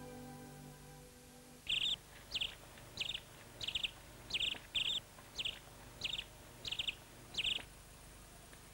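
A bird calling outdoors: a short, high note sliding down in pitch, repeated about eleven times at roughly half-second intervals.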